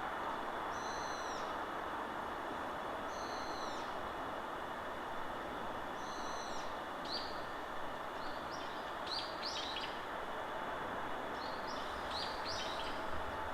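Wild birds calling in a forest over a steady rush of wind. A high call comes three times, then quick runs of short falling chirps.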